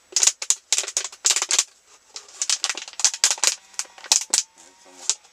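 Rapid, irregular runs of sharp clicks and crackles from objects being handled, in several quick clusters.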